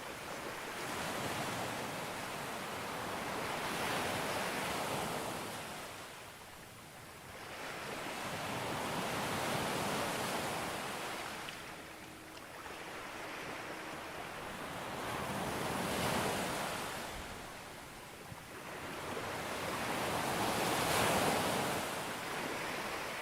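Sea waves breaking on a beach, the surf swelling and falling back four times, about every five to six seconds, the last break the loudest.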